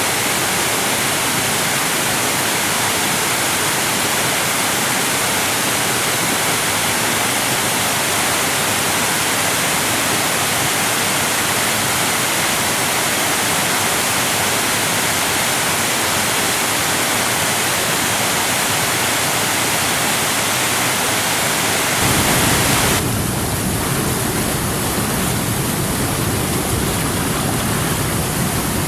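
Steady, loud rush of falling water from a waterfall. About three-quarters of the way through it changes to a deeper, lower rushing of water.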